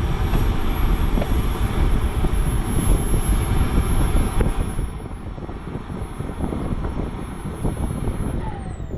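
Radio-controlled electric model airplane with a high thin motor whine, held steady and then falling sharply in pitch near the end, over heavy low wind rumble on the microphone.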